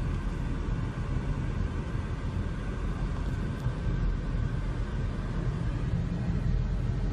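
Steady low rumble of a vehicle on the move: engine and road noise, with no impact.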